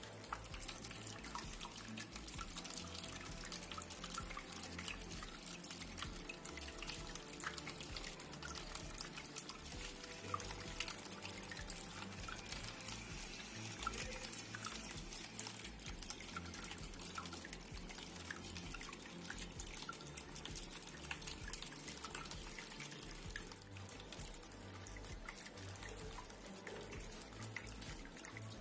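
Water trickling and dripping in a small cement tabletop waterfall fountain, a steady splashing dotted with many small drips.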